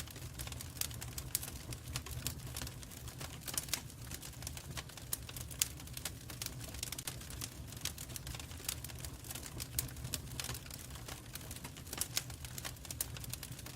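Wood fire in a fireplace crackling: dense, irregular pops and snaps over a steady low rumble of the burning.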